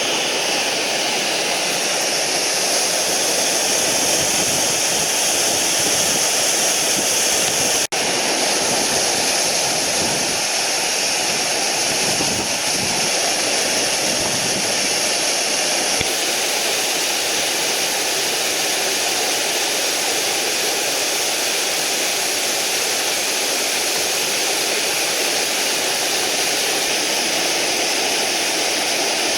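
Mountain stream rushing loudly over rocks: a steady, unbroken roar of white water.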